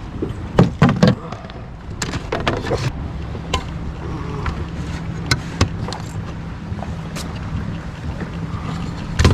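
Irregular knocks and clatter as a bass is handled on a measuring board in a fishing kayak, with a loud knock near the end. A steady low hum runs underneath.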